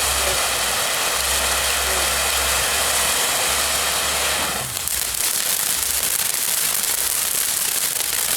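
A burning ground firework spraying sparks with a loud, steady hiss. About halfway through, the hiss drops for a moment and then comes back as a rougher crackle.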